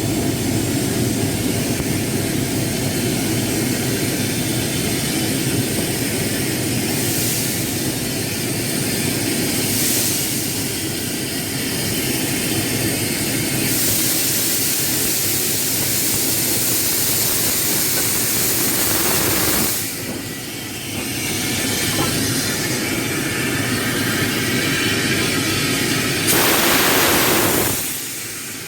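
A railway locomotive running on the line, a steady mechanical noise with several stretches of louder rushing hiss, the longest in the middle and a strong one near the end.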